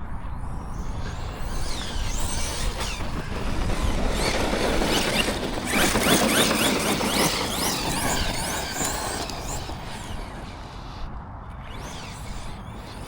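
Arrma Notorious RC monster truck's brushless motor whining, rising and falling in pitch as it is driven on and off the throttle. The sound eases off near the end as the battery nears low-voltage cutoff.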